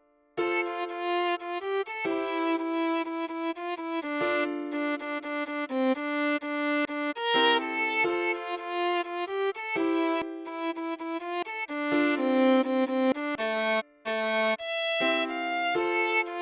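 Solo viola playing a melody of short bowed notes, several to a second. The melody starts after a brief silence and breaks off once for a moment near the end.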